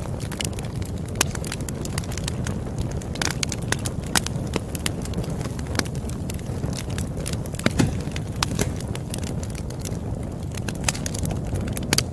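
Campfire crackling: many sharp pops and snaps over a steady low rush of burning wood, the loudest pop about eight seconds in.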